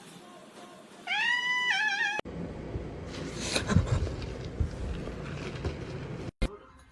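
A cat meows once, a rising call about a second long. Then comes a cut to rustling and handling noise with a few dull knocks.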